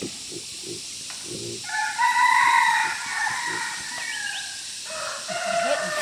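Rooster crowing: one long crow starting a little under two seconds in, and a second crow beginning near the end.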